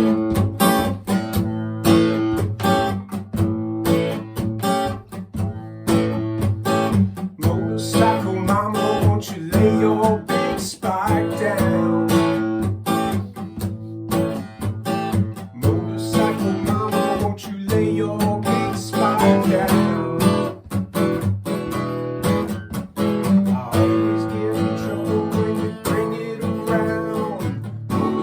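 Acoustic guitar strummed in a steady rhythm, an instrumental introduction with no singing.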